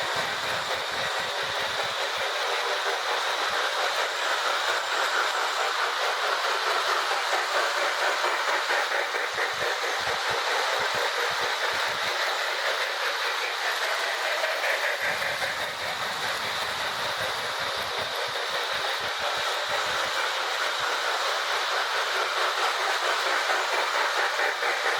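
Two Marx 1666 toy steam locomotives pulling tinplate cars around O-gauge track: a steady electric-motor whir with wheels clattering over the rails.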